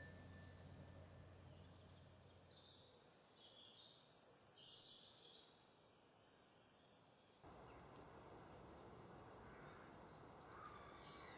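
Faint high bird chirps over a low background hiss, which steps up abruptly about two-thirds of the way through.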